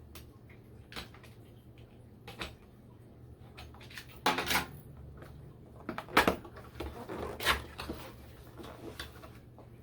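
Cardboard box and packaging being handled and opened by hand: scattered clicks and knocks, a scraping rustle about four seconds in, and sharper knocks around six and seven and a half seconds.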